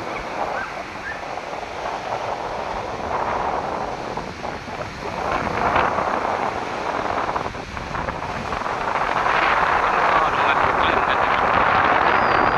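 Sea waves breaking and washing up on a beach, surging louder from about nine seconds in, with wind buffeting the microphone.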